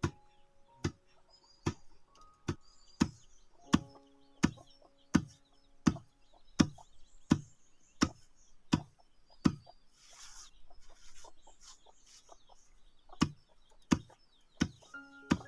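Paddy being pounded by hand to husk the rice: heavy, evenly paced thuds of the pounder striking the grain, about one every 0.7 s. The pounding pauses around ten seconds in with a short rustle of the grain, then resumes near the end.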